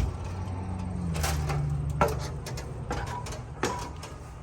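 Knocks and clicks of footsteps and door handling while entering a fifth-wheel camper, with a sharp knock about two seconds in, over a low hum that cuts off at that knock.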